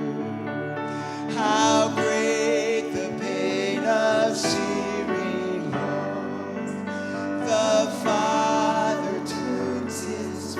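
A slow hymn sung solo with vibrato over held instrumental chords.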